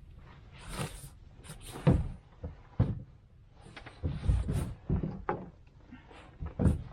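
Irregular knocks, bumps and rustling from gear being handled in a fishing boat.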